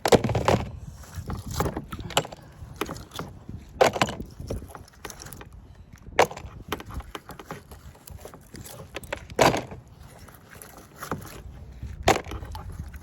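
Kayak being paddled: hollow knocks and splashes on the hull, coming irregularly every second or few.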